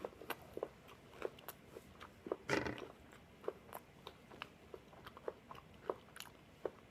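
Close-miked chewing of crisp toasted waffle: a run of small crunches and mouth clicks, about two a second, with one louder, longer bite about two and a half seconds in.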